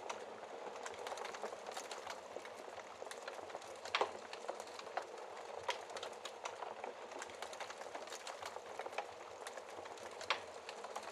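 Wood fire in a fireplace crackling: a steady hiss of flames with frequent sharp pops and snaps. The loudest snap comes about four seconds in and another near the end.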